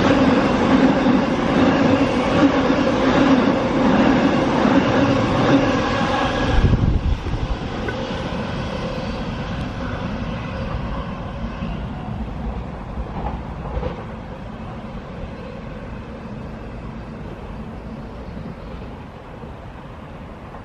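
Electric passenger train passing close at speed: loud wheel-on-rail noise with a steady whine. The noise drops suddenly about seven seconds in as the last carriage goes by, then fades away as the train recedes down the line.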